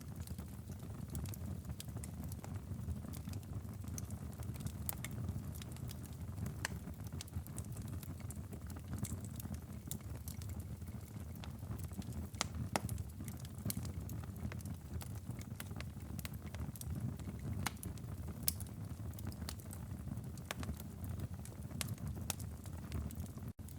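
Fireplace crackling: a steady low rumble of burning wood with scattered sharp pops and crackles. The sound cuts out for an instant near the end.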